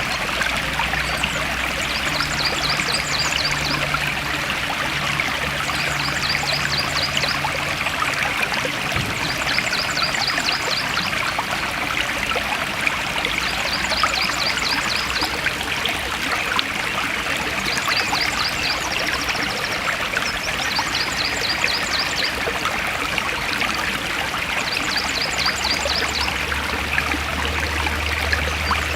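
A forest stream flowing steadily. A short, rapid, high-pitched trill repeats about every two to three seconds over the water.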